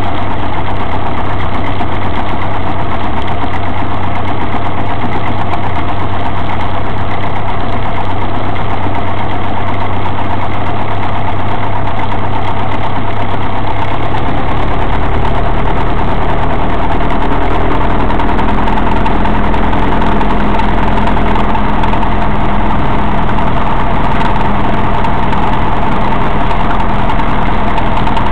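Cessna 172's piston engine and propeller running steadily at low power, heard from inside the cockpit. The engine note changes about halfway through.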